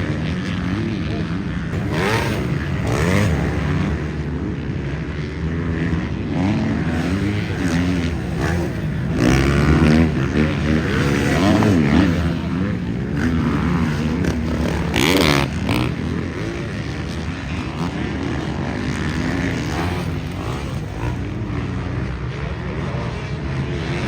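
Motocross dirt bike engines revving on the track during a practice session, their pitch rising and falling as the bikes accelerate and back off, loudest about halfway through.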